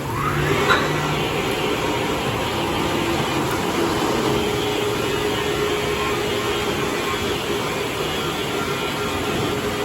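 Ryko Voyager car wash machinery running with a loud steady whoosh, starting with a rising motor whine in the first second and then holding even.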